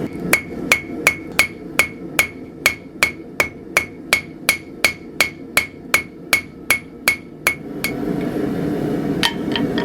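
Hand hammer striking steel on an anvil, shaping the D-guard: a steady run of about twenty ringing blows, roughly two and a half a second. The blows stop about 8 seconds in, followed by two lighter taps near the end.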